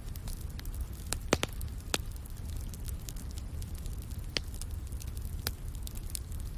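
Wood fire crackling in a fireplace: a steady low rumble under scattered sharp pops and snaps, the loudest pops about one and a half and two seconds in.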